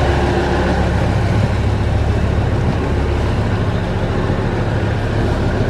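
An engine idling: a steady low hum with no change in speed.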